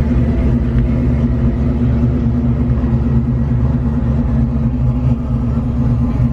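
1995 Mustang SVT Cobra's supercharged 302 V8 idling steadily at an even pitch.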